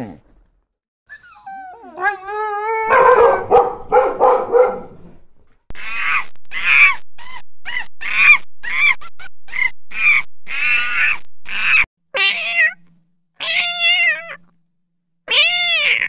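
A run of animal calls. Dogs whine with rising pitch and then yelp and bark in a loud flurry. About a dozen short monkey calls follow in quick succession, and from about twelve seconds in, kittens meow in arching calls.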